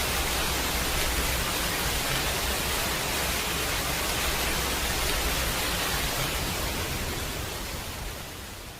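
Steady heavy rain, an even dense hiss with no distinct drops or thunder, fading out over the last couple of seconds.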